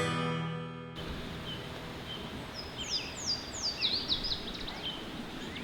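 A strummed acoustic guitar chord rings out in the first second. Then comes outdoor ambience with a steady hiss and a small songbird singing a run of quick, high, descending whistled notes in the middle.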